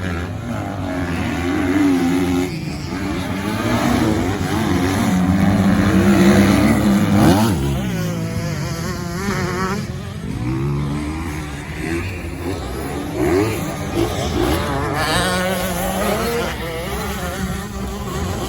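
Motocross bike engines revving, their pitch rising and falling with throttle and gear changes, at times more than one engine at once; loudest about seven seconds in.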